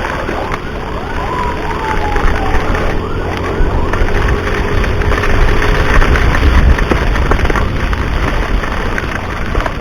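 Ambulance siren sounding, with a downward pitch sweep about a second in, over a heavy steady rumble of wind on the microphone from the moving motorbike.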